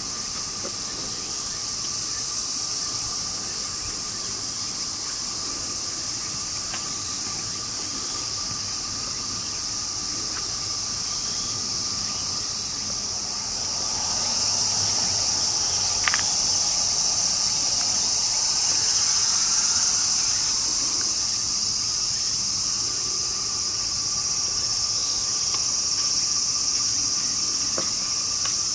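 Steady high-pitched insect chirring, as of crickets, with a faint steady lower tone beneath and a single click about 16 seconds in.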